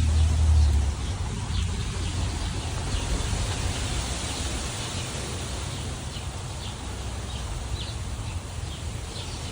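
Storm wind blowing through trees, buffeting the microphone with a heavy low rumble for about the first second and then easing to a steady rush. Birds chirp briefly several times over it.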